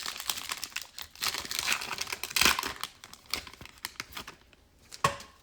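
Plastic trading-card pack wrapper being torn open and crinkled, a dense crackling for about the first three seconds, then a single light click near the end.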